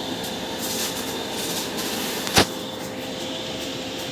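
Electrofusion welding machine running with a steady hum and a faint steady tone, as a weld cycle is started. A single sharp click about two and a half seconds in.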